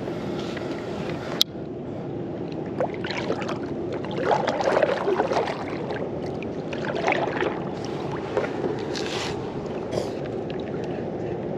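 Water lapping and gurgling against a kayak's hull, with irregular louder slaps through the middle. There is a single sharp click about a second and a half in.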